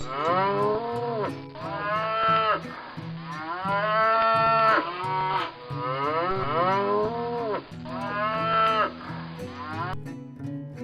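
Domestic cow mooing: a series of about five long moos, each rising and then falling in pitch, with short gaps between them.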